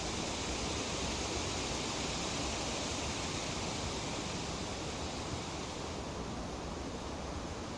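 Tree leaves rustling in a light breeze, a steady even hiss that swells slightly and then eases a little toward the end.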